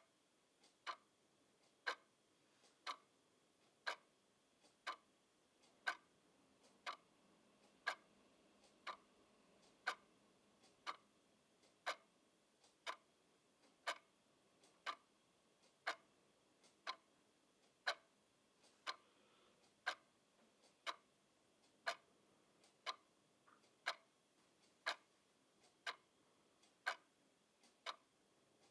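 Clock ticking steadily, about one sharp tick per second.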